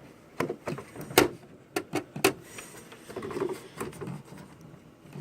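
Hard clicks and knocks of a graphics card and computer case being handled while the card is forced toward its slot, about a dozen sharp strikes spread irregularly, the loudest a little after a second in.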